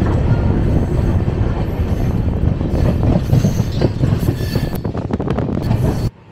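Indian Railways passenger train running on the track: a loud, steady rumble of wheels with sharp clicks over rail joints and brief high squeals from the wheels. The sound cuts off suddenly near the end.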